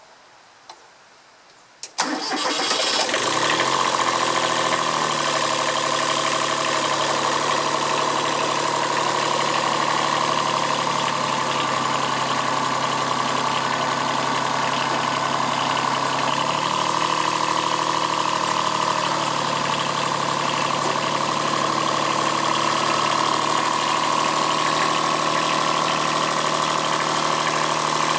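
Kubota B7001 tractor's diesel engine starting about two seconds in and then running steadily. Its speed rises a little about two-thirds of the way through and settles back.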